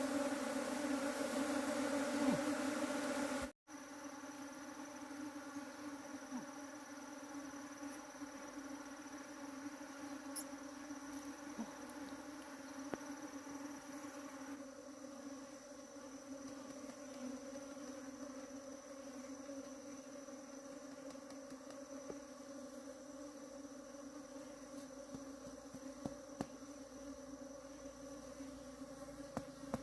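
Bees buzzing in a steady, pitched hum. It is loud for the first three and a half seconds, breaks off suddenly, then carries on somewhat quieter with a thin, steady high tone above it and a few faint clicks.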